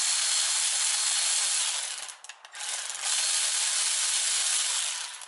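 Power driver backing out the starter's long case screws, running in two stretches with a short pause about two seconds in.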